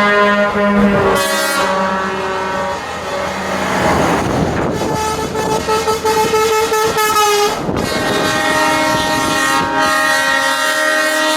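Truck air horns sounding almost without a break: several long held notes, overlapping and changing pitch about a second in, around four seconds and about seven and a half seconds in.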